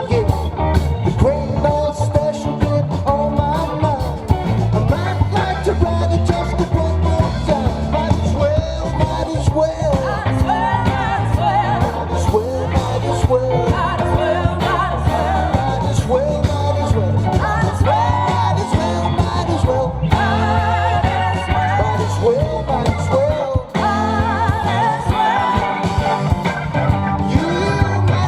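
A live rock band playing, with a bending lead melody line over a steady bass and drums.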